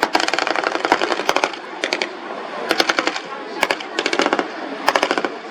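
Automatic weapons firing blanks in a staged battle: several short bursts of rapid shots, separated by brief gaps.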